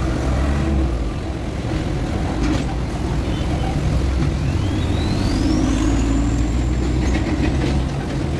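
Heavy diesel engine running steadily with a deep rumble, joined about four seconds in by a high whine that climbs and then holds level for a couple of seconds.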